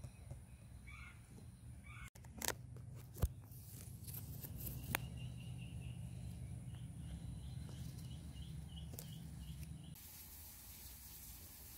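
Outdoor garden ambience over a steady low hum. A small bird gives a quick run of short, high, evenly spaced chirps in the middle, and a few sharp clicks come in the first few seconds.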